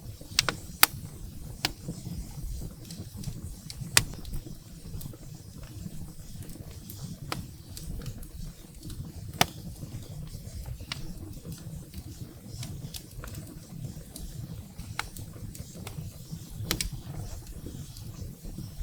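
Firewood burning in a fireplace, crackling with irregular sharp pops; the loudest come about a second in, at about four seconds and at about nine seconds. Under the pops is a low steady rumble.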